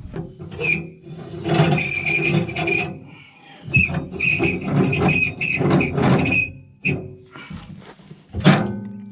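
Shovel scraping and grinding through soil and compost in a metal wheelbarrow, mixing it, in two long runs of strokes with a metallic squeal ringing over the scraping.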